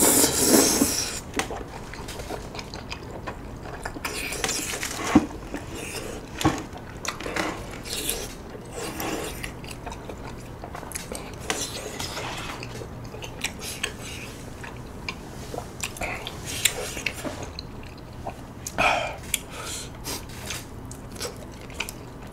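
Close-miked chewing of soft, saucy tteokbokki rice cakes: wet mouth sounds and smacks, with scattered light clicks of chopsticks against the dishes.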